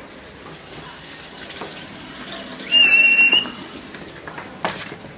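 A person whistling one short, steady high note, about three seconds in, to get a dog's attention, over a steady rushing hiss.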